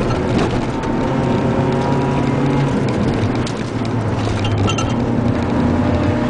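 Car engine heard from inside the cabin, running under throttle through a corner, with a brief lift off the gas a little past the middle as the car understeers (pushes wide), then back on the throttle.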